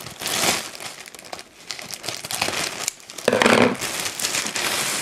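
Packaging crinkling and rustling as it is handled and opened, with one louder crinkle about three and a half seconds in.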